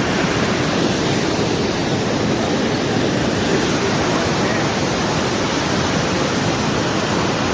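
Water from a cloudburst rushing, a loud, steady, even noise that doesn't change.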